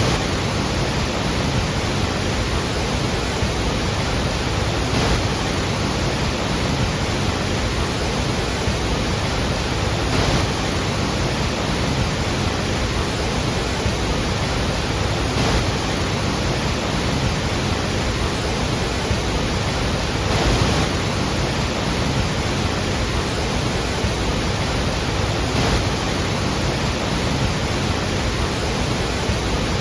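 Large waterfall thundering: the steady, dense roar of a huge volume of water falling and crashing, unchanging throughout.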